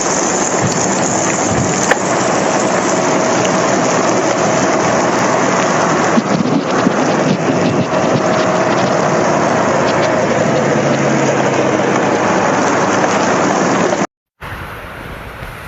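Heavy rain pouring down, loud and steady, with a few sharper spatters about six to seven seconds in. Near the end it cuts off for a moment and a quieter, steady rush of rain follows.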